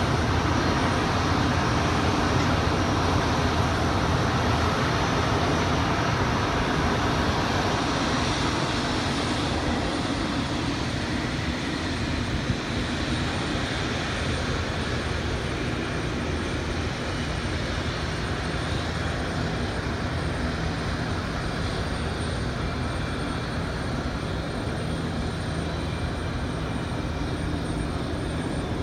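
Jet airliner engine noise, a broad steady rumble that slowly fades over the first ten seconds or so, mixed with wind buffeting the phone's microphone.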